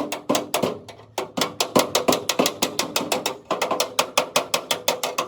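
Rapid hammer blows on the truck cabin's sheet-metal panels, about six strikes a second with a short metallic ring after each, pausing briefly twice: panel beating to straighten accident damage.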